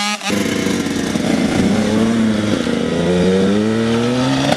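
Motocross dirt bike engine revving hard under acceleration. The pitch climbs, drops about halfway through as if on a gear change, then climbs again.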